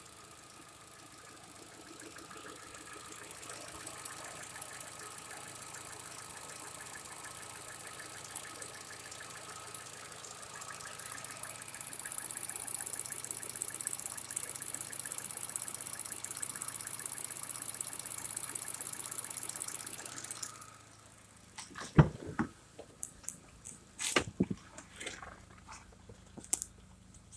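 A 2016 Holden Cruze's 1.8-litre Ecotec four-cylinder petrol engine idling steadily, louder and with a high hiss when heard close in the open engine bay. About twenty seconds in the sound drops to a quieter steady hum, and a few sharp knocks and clunks follow.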